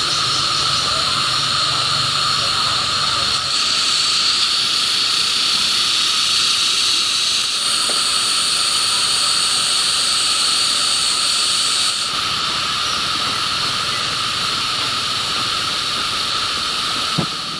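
Steady, shrill chorus of insects, a continuous high drone that hardly changes in level.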